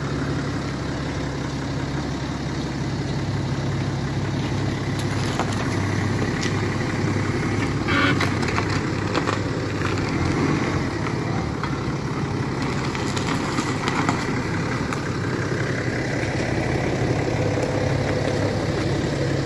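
BMW 7 Series engine idling steadily as the car creeps backward out of its parking spot.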